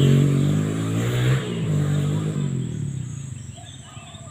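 A motor vehicle's engine passing close by, loudest at first, then fading as it moves away.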